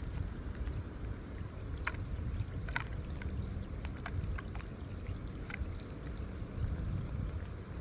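Low wind rumble on the microphone over water sounds at the shore, with a few faint short clicks scattered through.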